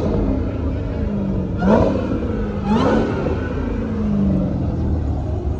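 A car engine is revved twice in short blips over a steady idle rumble. Each rev climbs sharply in pitch and then falls back slowly.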